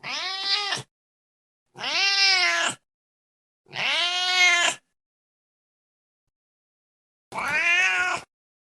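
Domestic cat meowing four times, each meow about a second long with a pitch that rises and then falls, with silent gaps between the calls.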